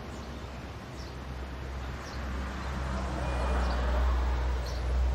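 Outdoor ambience: short, high bird chirps repeat about once a second over a low rumble and rushing noise that swells about three to four seconds in.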